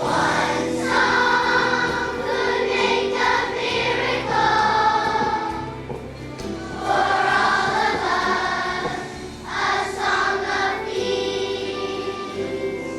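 Children's choir singing with instrumental accompaniment, in several phrases with short breaths between them. The voices stop about eleven seconds in, leaving the accompaniment playing on.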